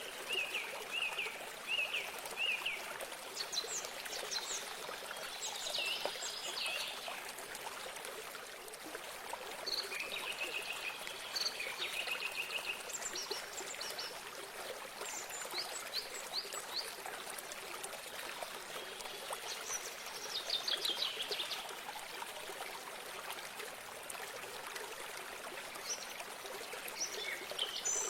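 Small stream or water source trickling steadily, with songbirds singing on and off over it in short repeated chirps and trills.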